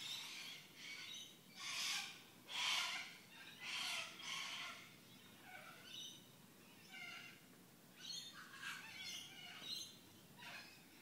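Birds calling at a birdbath: a string of short, harsh calls, loudest in the first few seconds, then quieter calls.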